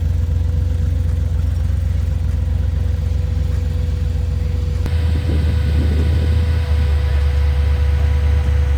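Car engine idling with a deep, steady rumble. The rumble shifts abruptly about five seconds in.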